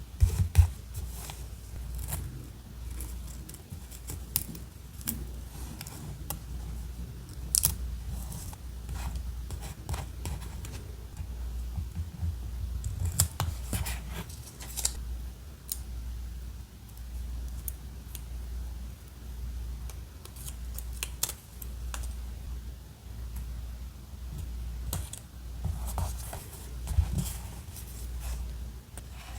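Scissors snipping paper in irregular short cuts, with scattered sharp clicks and rustles of paper handling over a steady low hum.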